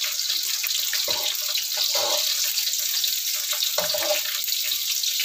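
Chopped shallots, garlic and lemongrass sizzling in hot oil in a steel wok. A metal spatula scrapes and knocks against the wok about three times.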